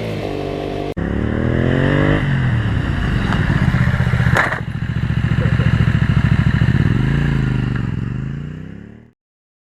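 Honda VT250 Spada's 250 cc V-twin engine running and revving, its pitch rising and falling several times, with a sudden brief break about a second in. The engine sound fades out near the end.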